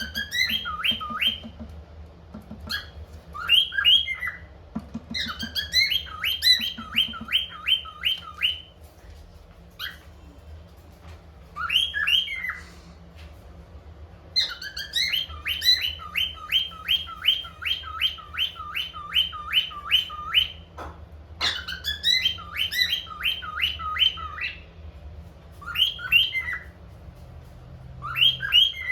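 Cockatiel singing: phrases of quick whistled notes that sweep up and down in pitch, some strung into long fast runs of repeated notes, with short pauses between phrases.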